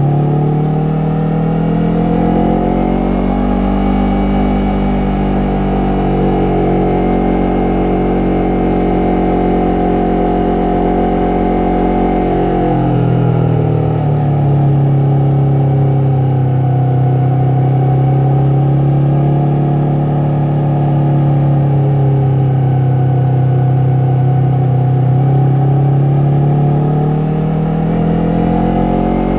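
Yamaha MT-03's parallel-twin engine and exhaust running steadily under way, its pitch rising and falling gently. About halfway through the note steps down lower and then holds.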